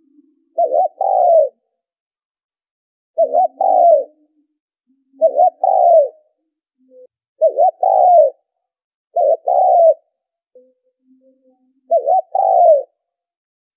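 Spotted dove cooing: six phrases about two seconds apart, each a quick double coo followed by a longer falling coo, with faint low notes between the phrases. It is a lure call, the kind played to draw wild doves to a trap.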